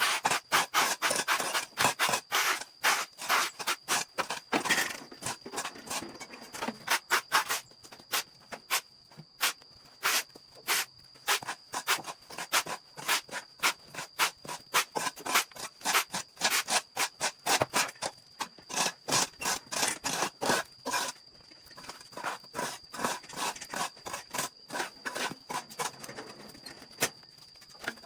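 Quick, repeated scraping strokes, several a second and irregular, easing off and getting softer in the last several seconds, over a steady high-pitched whine.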